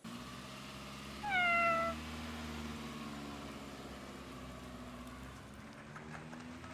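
A cat meows once, a single call of under a second that falls slightly in pitch. A faint, steady low hum runs underneath.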